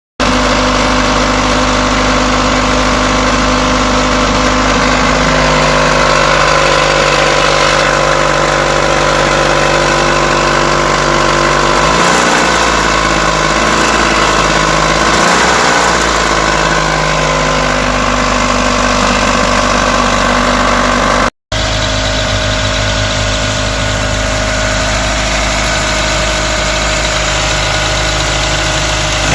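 Mitsubishi Outlander's 4G64 inline-four engine running with a knock from the timing-belt area, the revs rising and falling briefly about midway. The knock comes from a failed hydraulic timing-belt tensioner: its plunger has lost pressure and no longer holds the belt.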